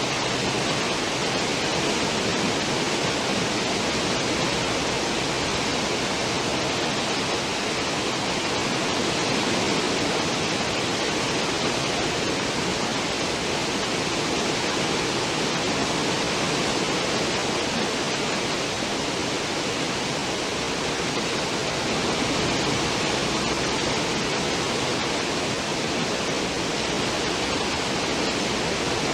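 Churning water of a cruise ship's stern wake: a steady rushing hiss that holds level without breaks.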